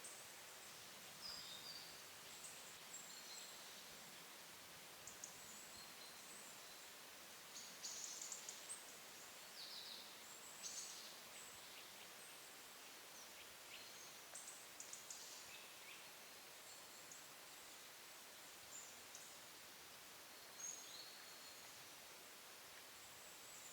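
Faint, scattered high-pitched calls and chirps of small woodland birds, short and irregular, over a soft steady hiss.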